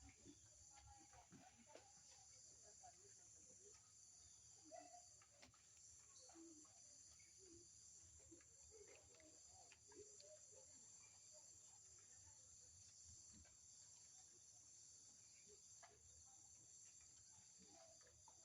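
Faint, steady high-pitched chorus of insects, with scattered short calls lower down.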